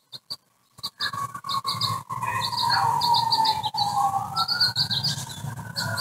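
Small songbird chirping in quick runs of short, high notes, starting about a second in. Underneath, a tone slides down and then back up, over a low hum.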